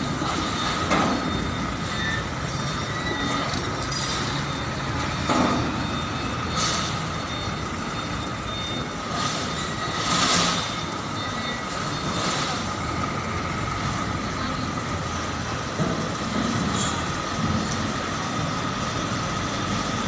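Heavy trucks' engines running steadily while the trucks manoeuvre with trailers, with a few short hisses over the engine noise.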